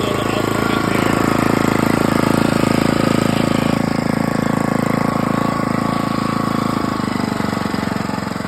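Backhoe engine running steadily, a little louder in the middle and easing off near the end.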